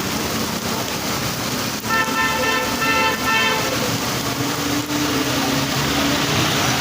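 A vehicle horn honking in a quick run of short toots about two seconds in, over a steady hiss of background noise.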